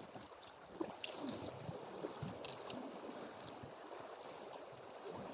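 Feet wading through shallow river water: a steady wash of moving water with a few sharper splashes.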